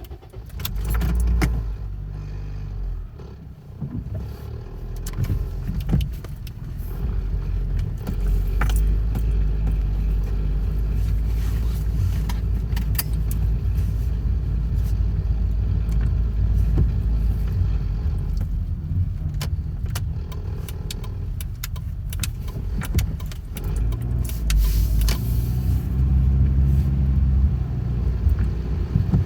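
A car's low engine rumble, shifting in pitch now and then, with scattered sharp clicks and taps over it.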